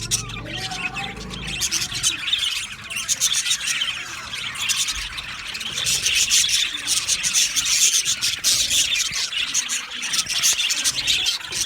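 A group of male budgerigars chirping and chattering together, a dense, unbroken warble of many quick overlapping calls.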